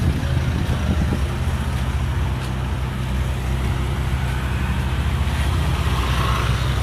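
Steady low rumble of vehicle engines running, with traffic noise.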